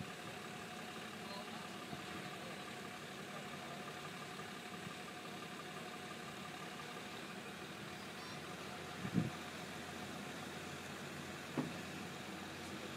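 An engine idling steadily, with a short knock about nine seconds in and a smaller one a couple of seconds later.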